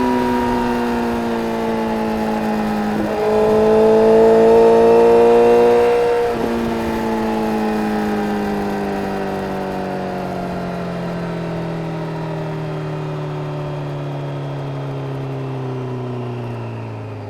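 2010 Honda CBR1000RR inline-four engine through an Arrow Indy exhaust with the dB killer removed. The revs sag, pick up under throttle and get louder for about three seconds, then fall steadily as the bike slows off the throttle.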